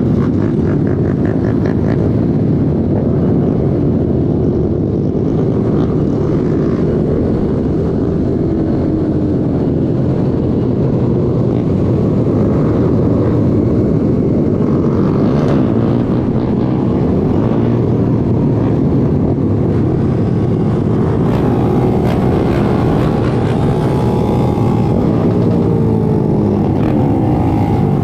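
Many small pit bike and minibike engines running and revving together, their pitches rising and falling as bikes pass.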